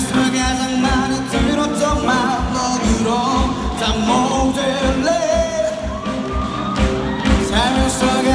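A pop song: a lead vocal sung over band accompaniment with a steady drum beat.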